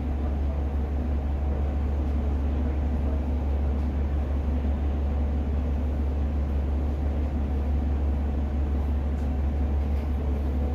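Steady low drone heard inside the passenger cabin of a Class 150 diesel multiple unit, from its underfloor diesel engine and running gear, with no change in pitch or level.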